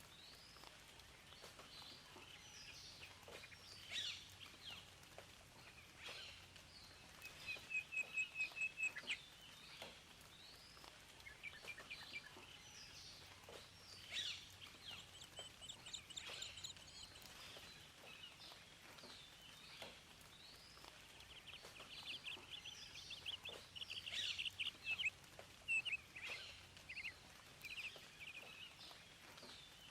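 Several songbirds singing and calling: short chirps and whistled notes throughout, with a fast trill of repeated notes about eight seconds in and another burst of rapid notes near the end. Underneath runs a faint, steady hiss.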